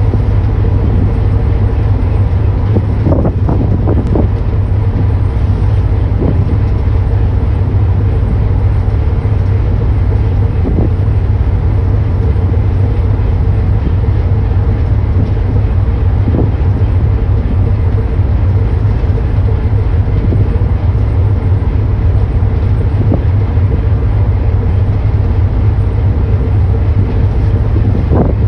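Boat engine running with a steady, loud low drone and a constant hum, with a few faint knocks about three, four and six seconds in.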